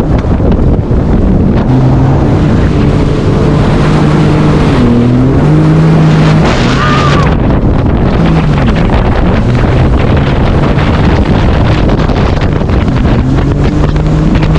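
Jet ski engine running under throttle, its pitch stepping up and down as the gas is worked, over loud wind buffeting and a rush of water that peaks a little past the middle.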